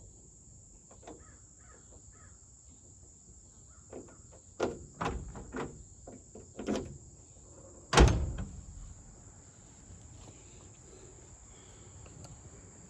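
Door of a 1971 Chevy C10 pickup being worked: several sharp latch and lock clicks, then the door slammed shut about eight seconds in. The newly fitted door lock still will not lock the door.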